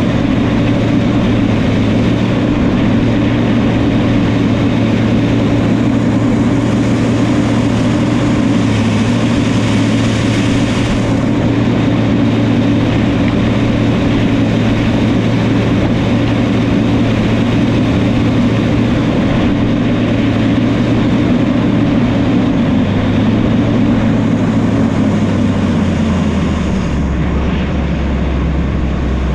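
Diesel engine of a New Holland crawler dozer running steadily at high revs, its pitch dropping in two steps over the last several seconds as the revs come down.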